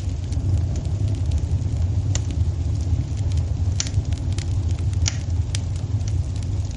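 Wood fire in a fireplace crackling, with scattered sharp snaps and a few louder pops, over a steady low rumble.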